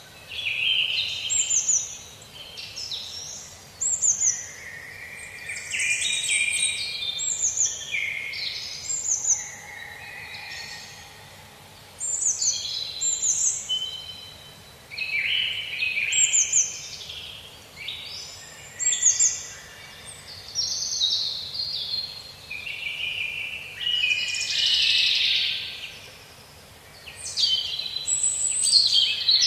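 Several songbirds singing in overlapping phrases, with quick chirps and notes sweeping down in pitch, repeated every second or two over a faint steady background hiss.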